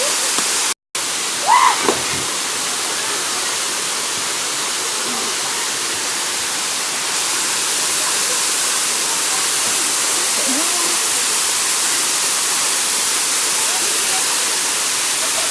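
Waterfall's steady rush of falling water, with faint shouting voices underneath. The sound drops out completely for a moment about a second in.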